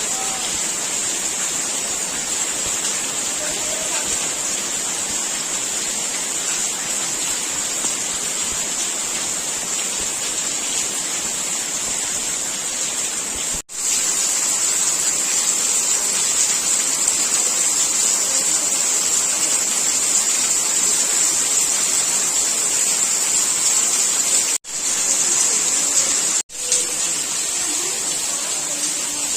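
Heavy rain falling in a steady hiss, cut off for an instant three times, about halfway and twice near the end.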